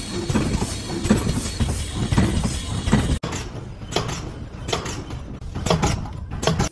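Packaging machine running: a dense mechanical clatter with repeated knocks. About three seconds in the sound cuts abruptly to a thinner run of separate knocks.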